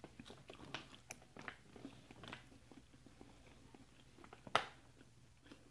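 A toddler chewing a mouthful of couscous: faint, wet mouth clicks and smacks, with one sharper click about four and a half seconds in.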